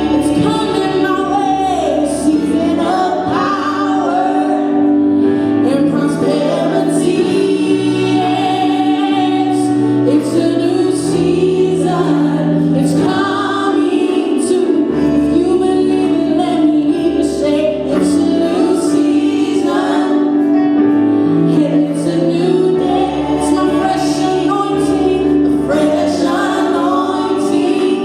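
Church praise and worship team singing a gospel song, with female voices prominent, over band accompaniment of sustained chords, a moving bass line and percussion.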